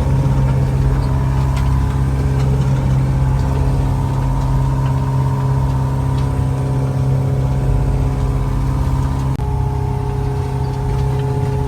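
A sailboat's engine running steadily under way at low speed, a constant low drone. About nine seconds in, its pitch shifts slightly and abruptly.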